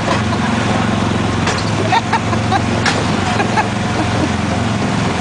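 A ride car's small gasoline engine running steadily as it drives along the track.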